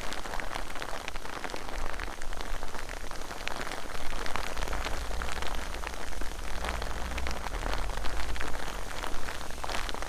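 Steady rain falling, with many individual drops tapping close to the microphone, and wind blowing sideways rain, heard as a low rumble on the microphone.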